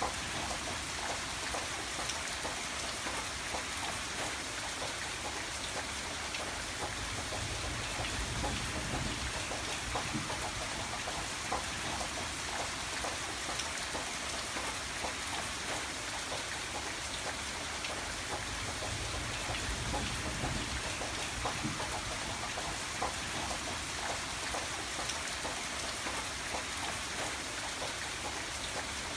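Steady rain falling, with a dense hiss and many individual drops ticking on a surface, over a faint low rumble.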